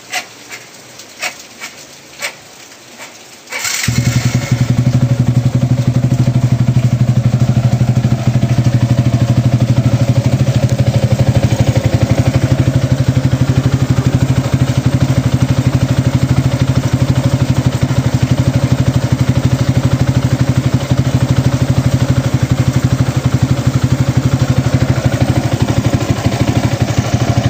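A few sharp clicks, then a Yamaha Y15ZR (Exciter/Sniper 150) single-cylinder four-stroke engine starts about four seconds in and runs steadily. This is the freshly built engine's first run.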